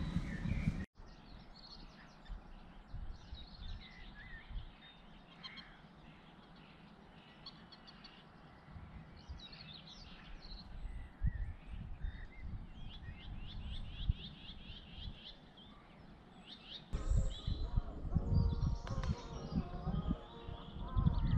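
Small songbirds singing and chirping, with several trilled phrases, over a low rumble that grows louder about 17 seconds in.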